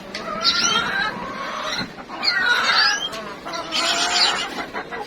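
Domestic hens clucking, with small birds chirping in short rising and falling calls.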